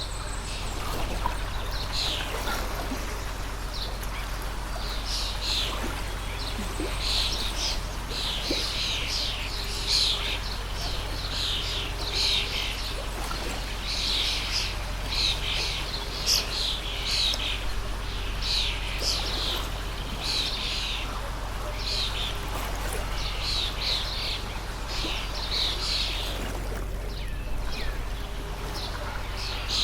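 Small birds chirping in quick, repeated series over the steady rush of a flowing stream; the chirping stops a few seconds before the end.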